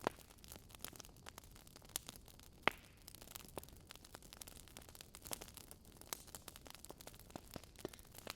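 Wood fire crackling in a fireplace: irregular small pops and snaps over a faint hiss, with one sharper pop between two and three seconds in.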